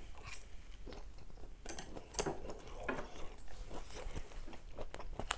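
A person chewing a mouthful of food close to the microphone, with irregular soft wet clicks and crackles.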